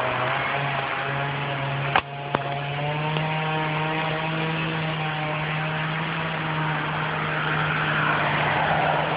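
An engine running steadily at an even pitch, with two sharp clicks about two seconds in.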